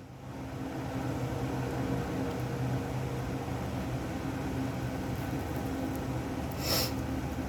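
Steady low mechanical hum, like a fan or appliance running, with one short noisy rustle near the end.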